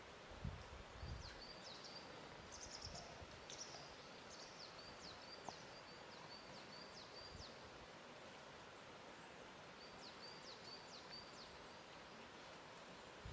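Faint lakeside ambience: a soft, even hiss with a few low laps of water in the first second or so. A small bird calls over it in quick series of short, high chirps, in two bouts.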